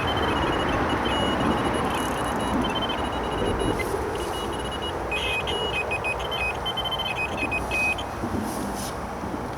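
Electronic carp bite alarms beeping in quick runs at two different pitches, set off by river debris dragging on the lines, over the steady rush of road traffic from a nearby bridge.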